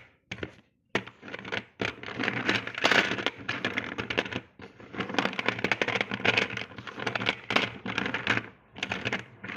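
Slate pencils crunching and cracking in runs of rapid, sharp snaps, pausing briefly between runs.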